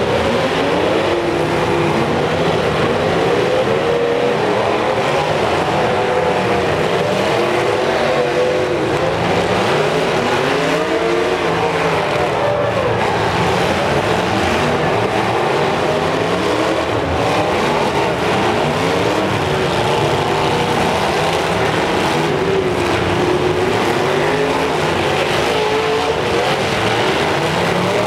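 Demolition derby cars' engines revving hard together, pitches rising and falling over and across one another in a constant loud din as the cars drive and ram each other.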